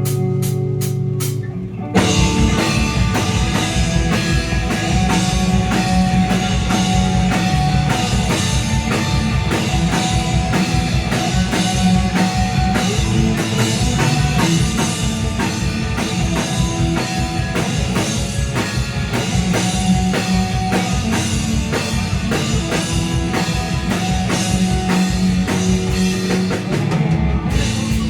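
Rock band playing live: guitar at first, then the drum kit comes in about two seconds in and the full band carries on with a steady driving beat.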